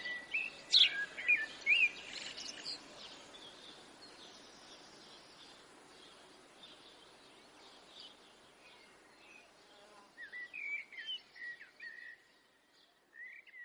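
Small birds chirping in short calls, in a cluster at the start and again about ten seconds in, over a faint steady high hiss. The sound drops almost to silence near the end, with a few last chirps.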